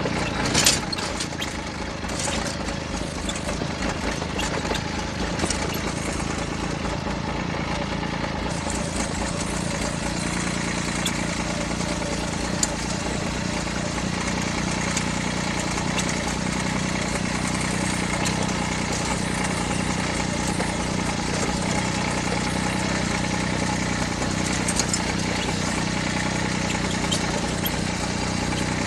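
John Deere tractor's diesel engine running steadily, with a sharp loud noise under a second in.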